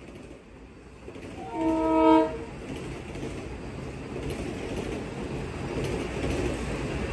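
Train horn sounds one short chord of several notes about a second and a half in, under a second long. After it comes the rumble of a Kawasaki M8 electric multiple unit pulling in on the nearby track, growing steadily louder.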